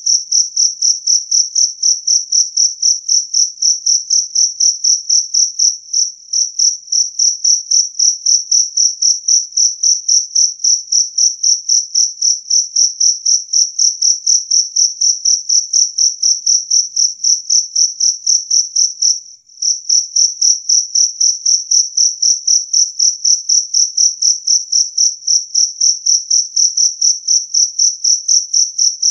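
Jangkrik kalung (two-spotted field cricket) calling: a loud, clear, high chirp repeated evenly about three times a second, with a brief pause about six seconds in and another just past halfway.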